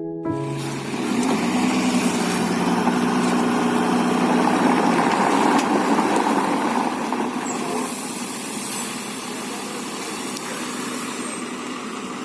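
A concrete truck's engine running steadily, with a dense rough noise over it.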